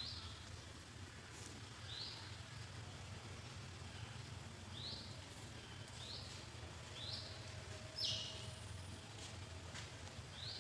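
Short high-pitched chirps repeating every one to three seconds, about seven in all, the loudest near the end, over a steady low hum.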